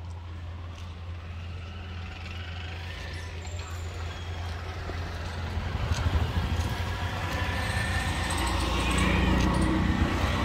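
A car engine idling steadily, with a general noise that grows louder over the second half.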